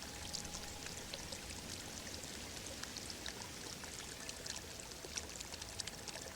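Running water trickling steadily, with many small splashing ticks. Faint held tones sit in the background.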